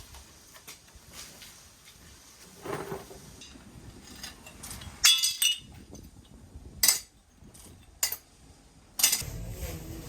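A handful of sharp clinks of hard objects striking one another: two close together about halfway through, then single ones about a second apart.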